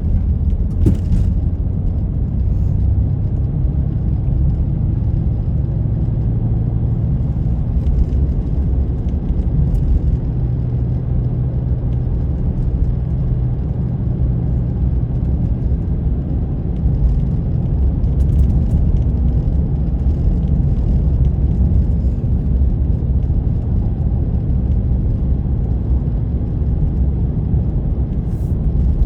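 Car driving at a steady pace, giving an unbroken low rumble of engine and road noise with a few faint ticks.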